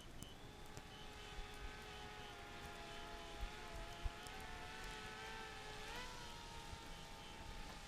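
DJI Spark quadcopter's propellers whining steadily as it flies back on a low battery. The pitch wavers and rises briefly about six seconds in.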